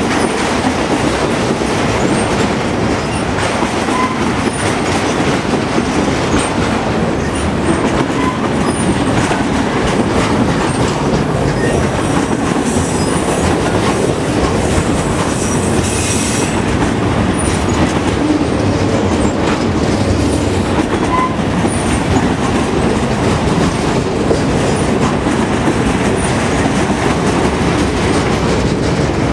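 Autorack freight cars of a CSX train rolling past steadily, a loud continuous rumble of steel wheels on rail with clacking over the rail joints. A faint high squeal rises for a few seconds around the middle.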